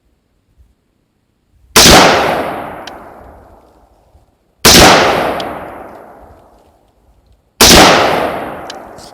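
Three single rifle shots fired at a steady pace, about three seconds apart, each one loud and sharp with a long echo fading away after it.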